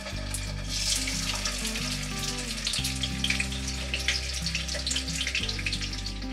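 Spice-marinated kingfish steaks frying in hot oil in a frying pan: a crackling sizzle that picks up about a second in as the pieces go into the oil. Background music with steady low notes plays underneath.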